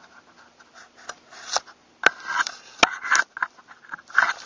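Pump shotgun parts being handled: rubbing and scraping, with two sharp metal clicks about two seconds in and just under three seconds in.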